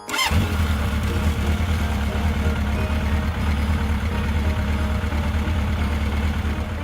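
An engine starting with a brief sharp burst, then running with a loud, steady low rumble that holds for about six seconds.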